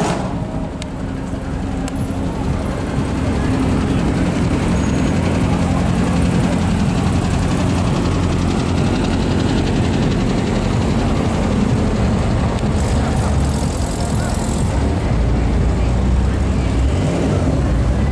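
Sports car engine running steadily at low revs, a continuous low rumble.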